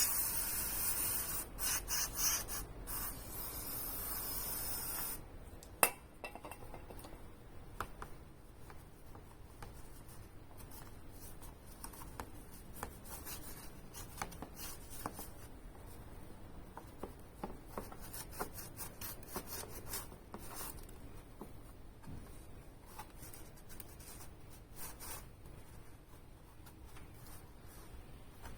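A few hissing blasts of aerosol parts cleaner over the first five seconds, then steady rubbing and scrubbing with scattered light clicks and knocks as parts are cleaned.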